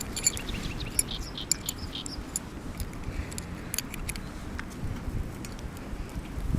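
Light metallic clinks and clicks of camp cookware and utensils being handled, thick in the first couple of seconds and again about four seconds in, over a low steady rumble.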